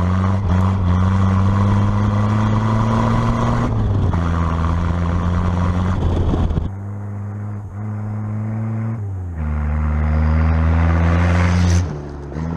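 Carbureted Toyota Celica engine running as the car is driven on the road, its note dropping and rising in steps several times.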